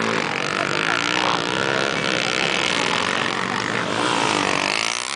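Motocross motorcycle engines revving, several at once, their pitch rising and falling as the bikes race.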